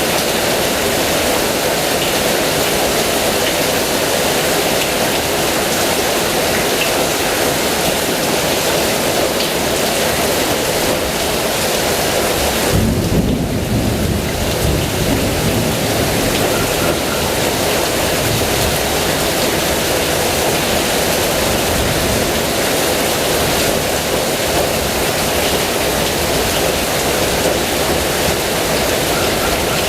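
Heavy rain falling steadily, a dense even hiss. About halfway through, a roll of thunder rumbles low and fades over a few seconds.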